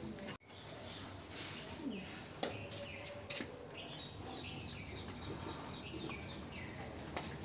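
Small birds chirping: a quick run of short falling chirps over faint outdoor background noise, with a few faint clicks.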